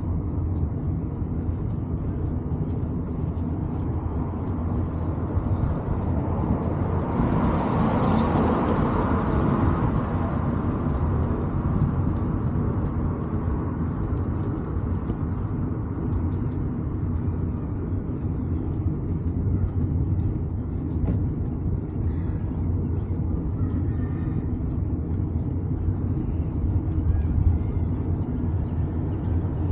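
Steady low rumble of wind and road noise on a bicycle ride. About seven seconds in, a vehicle passes, swelling and fading over a few seconds.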